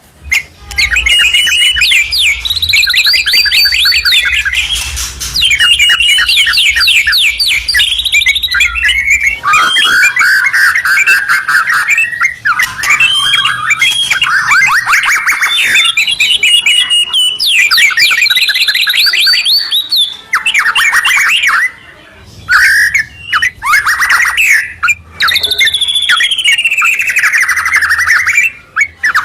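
A white-rumped shama and a yellow-vented bulbul singing loudly in duet: fast rattling trills and sweeping whistled phrases that rise and fall almost without pause, broken briefly about two-thirds of the way through.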